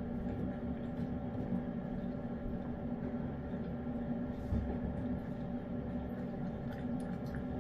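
A steady low hum with several fixed tones, with faint scattered small clicks over it.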